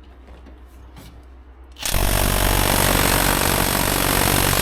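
Impact wrench hammering continuously on a stubborn bolt that won't break loose. It starts about two seconds in and runs steadily.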